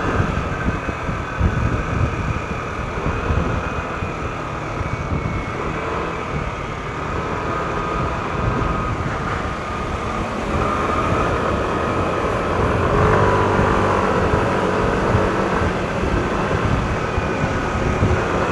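Yamaha NMAX scooter running along the road at a steady pace, its single-cylinder engine and belt drive humming under road and wind noise. It gets a little louder a little past the middle.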